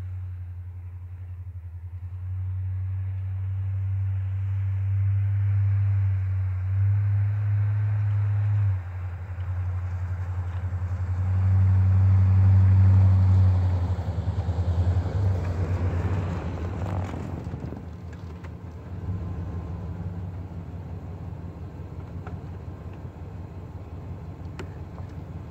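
A motor vehicle's engine running with a low rumble, its pitch shifting in steps; it grows louder to a peak about halfway through, then eases off.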